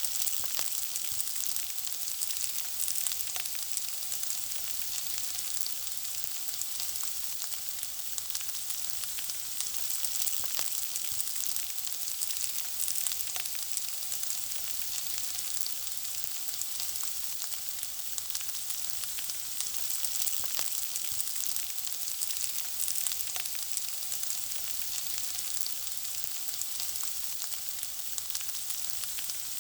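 Food frying in hot oil: a steady sizzle with frequent small pops and crackles scattered through it.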